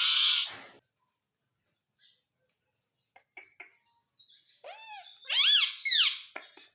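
Pet parrot calling. A loud harsh screech at the start, a few short clicks, then a quick series of arched, whistly calls that rise and fall in pitch, the loudest near the end.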